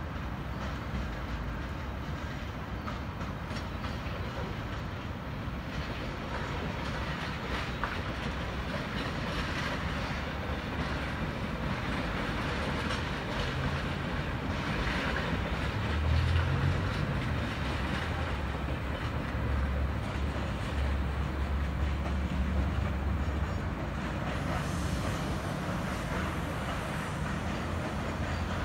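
Sydney Trains V-set double-deck electric intercity train running past across the junction trackwork. Its rumble builds through the middle and eases near the end.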